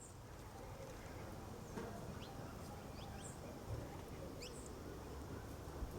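A small bird giving a few short, high, quickly rising chirps, spaced irregularly, over a steady outdoor background hiss.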